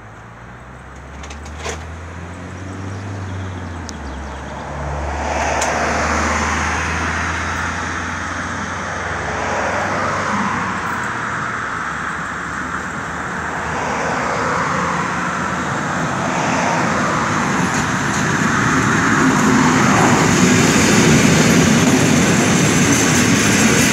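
EN57 electric multiple unit approaching and running past on the track, its rumble growing steadily louder until it is close by near the end. Cars pass on a road along the way.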